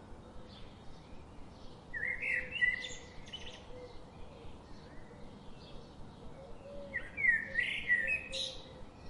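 Birds singing: two loud phrases of quick, sweeping high notes, about two seconds in and again about seven seconds in, with fainter chirps between them.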